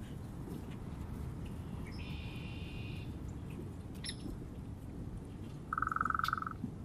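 Wild birds calling: a short harsh call about two seconds in and a sharp chirp a second later. Near the end comes a louder buzzy trill, all over a steady low rumble.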